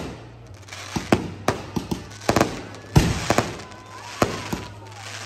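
Fireworks display: a rapid series of sharp shell bursts, about a dozen in five seconds, some in quick pairs, with crackling between the bangs in the middle.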